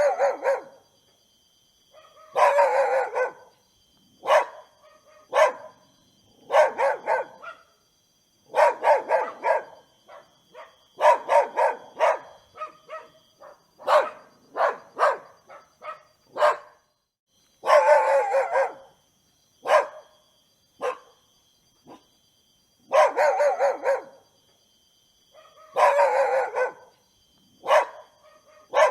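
A dog barking repeatedly, in runs of several quick barks with short pauses between.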